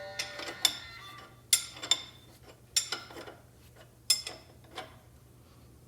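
Metal tools and bolts being handled: a string of sharp metallic clinks and taps, each with a short ring, loudest about a second and a half in and again near four seconds.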